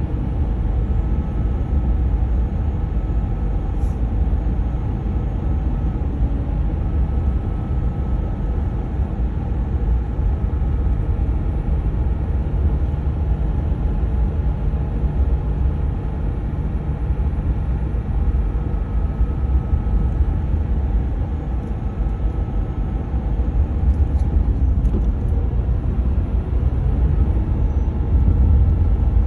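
2014 Dodge Ram 1500 EcoDiesel's 3.0-litre V6 turbodiesel running with a steady low rumble. It is being run to burn soot off a clogged diesel particulate filter (a DPF regeneration) on a truck that has lost power and boost.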